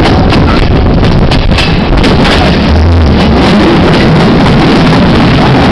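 Loud, steady rush of wind on the microphone over the low rumble of a moving passenger train, with a few short knocks in the first couple of seconds, recorded at an open carriage window.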